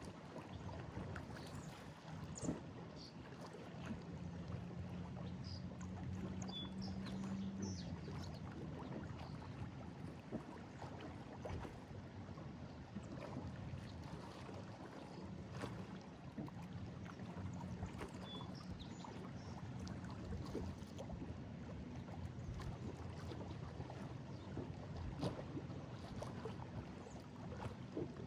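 Lake Erie waves lapping and splashing against a break wall, with a steady wash of water and many small sloshes. A faint low hum sits underneath, clearest from about four to eight seconds in.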